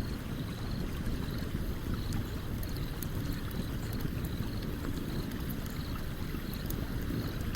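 Campfire crackling beside a running stream: a steady rush of flowing water underneath, with sharp little pops and snaps from the burning wood scattered through it. A faint high chirp repeats about twice a second in the background.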